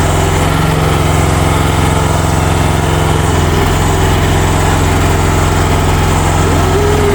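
Small mini excavator engine running steadily at an even speed, with a short higher tone near the end.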